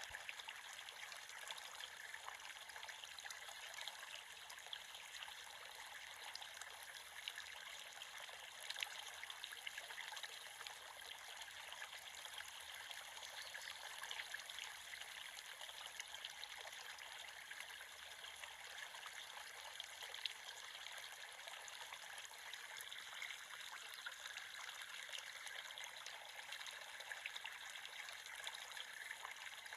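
A creek flowing, a steady trickle and babble of water over stones, with nothing deep in it.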